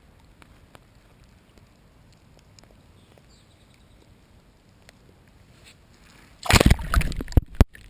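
Largemouth bass being released by hand: a faint, quiet stretch, then about six and a half seconds in, a loud burst of water sloshing and splashing that lasts about a second.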